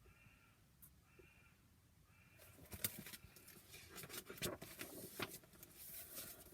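Paper rustling and soft handling clicks from a paperback picture book being handled and its page turned, starting about two and a half seconds in.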